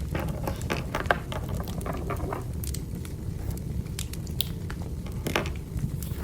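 Wood fire crackling in a fireplace: frequent sharp crackles and pops over a steady low rush of the burning logs.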